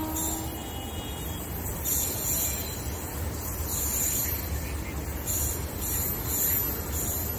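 Low, steady rumble of a train moving away down the line, with faint high chirps repeating over it.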